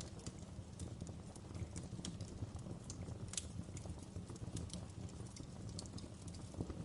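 Wood fire in a fireplace crackling: irregular sharp snaps and pops, about two a second, over a low steady rumble of the burning logs.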